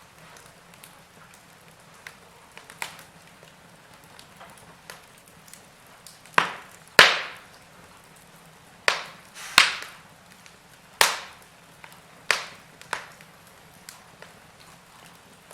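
Logs burning in a fireplace, crackling: scattered sharp pops and snaps over a faint hiss, with a run of louder snaps from about the middle onward.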